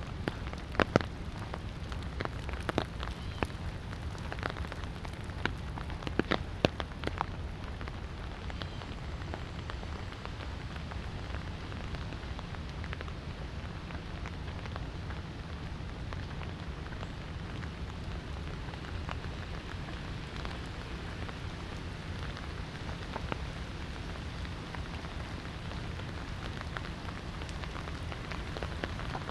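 Light rain falling steadily, with scattered louder drops landing close by as sharp ticks, more of them in the first few seconds and again near the end.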